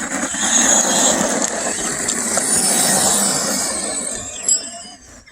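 Brushed-motor RC monster truck driving close by, its motor and gears whining high over tyre noise on dirt; it swells, then fades away. A sharp click about four and a half seconds in.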